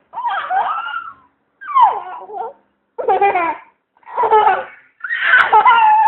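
A girl's voice making funny high-pitched laugh-like noises: five separate bursts with sliding pitch, each under about a second, with short pauses between them.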